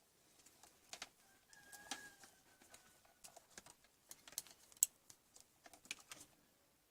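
Irregular light clicks and taps, like small hard objects being handled, with a faint thin tone sliding slightly down for about a second and a half near two seconds in.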